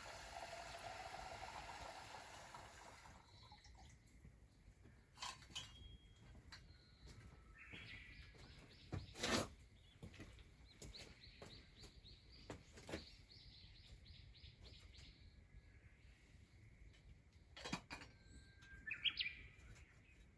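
A bird singing faintly, with quick runs of repeated high notes and a shorter call near the end. A few sharp clicks or cracks sound among them, and a soft hiss stops about three seconds in.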